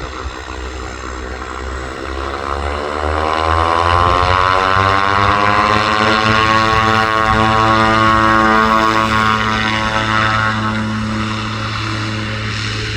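Propeller aircraft engines growing louder as the plane passes, with a whine whose pitch climbs and then levels off; loudest from about four to ten seconds in, then easing.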